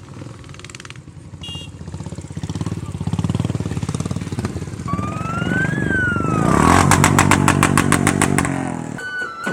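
Motorcycle engine running, building up and revving hard from about six and a half seconds in, then dropping off about nine seconds in. A short tone rises and falls in pitch just before the revving.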